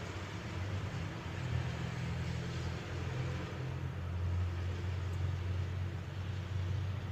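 City ambience in light rain: a steady low rumble of traffic over an even hiss of rain.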